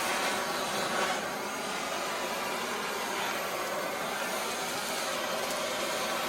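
Blowtorch flame burning with a steady hiss while singeing the feathers off a plucked rooster.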